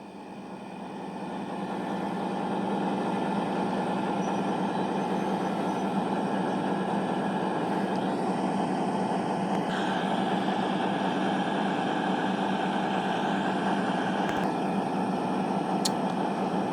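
CrossCountry Voyager diesel multiple unit (Class 220) with its underfloor diesel engines running steadily, a deep hum with a higher drone above it, growing louder over the first couple of seconds and then holding level.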